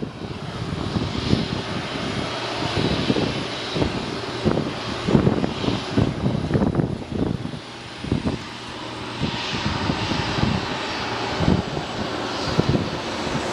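Boeing 737-300's CFM56 jet engines running, a steady rushing noise with a thin high whine that fades about two-thirds of the way through, while gusts of wind buffet the microphone.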